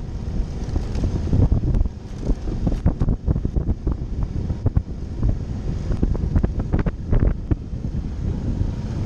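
Suzuki V-Strom motorcycle's V-twin engine running under way, with heavy wind buffeting the microphone and irregular knocks through the ride.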